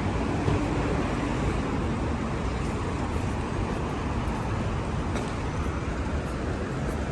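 Steady city traffic noise, a continuous even rumble of vehicles with no single event standing out.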